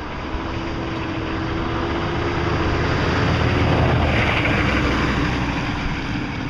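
Road traffic: a vehicle driving past, its engine and tyre noise swelling to a peak about four seconds in and then fading.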